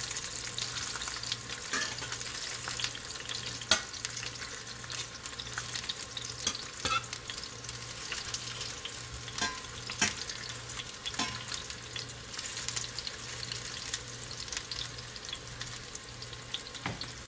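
Slit bitter gourds (karela) shallow-frying in oil in a stainless steel skillet: a steady sizzle full of small crackling pops. A few sharper clicks come as metal tongs turn the pieces against the pan.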